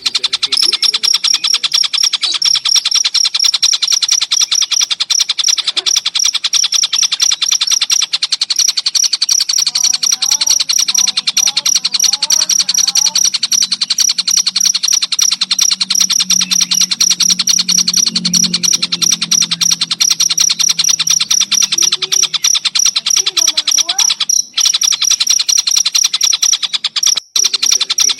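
Songbird-training recording of collared kingfisher calls layered with chirping crickets: a rapid, unbroken high-pitched pulsing that never pauses, with a few short lower gliding notes about ten seconds in. The sound cuts out for an instant twice near the end.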